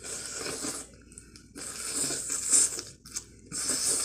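Chewing and mouth sounds of eating crab meat, in three bursts: at the start, in the middle and near the end.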